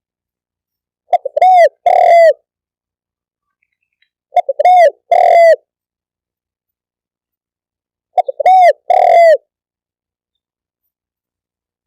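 Spotted dove cooing: three phrases, about three and a half seconds apart, each a quick stutter of short notes followed by two longer arched coos.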